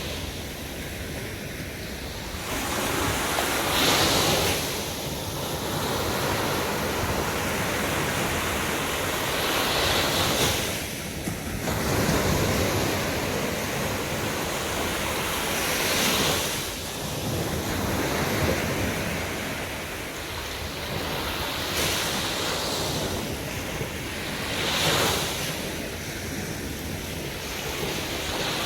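Sea waves breaking on a beach: a steady wash of surf that swells and falls back roughly every six seconds.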